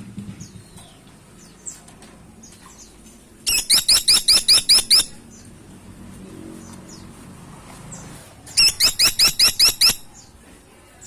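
Caladi Tikotok woodpecker calling: two rapid strings of about nine sharp, high notes each, a few seconds apart. Faint chirps are heard between them.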